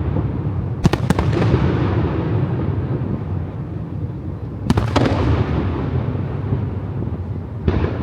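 Aerial fireworks shells bursting: clusters of sharp bangs about a second in and again near five seconds, over a continuous low rumble of booms, with a new volley starting near the end.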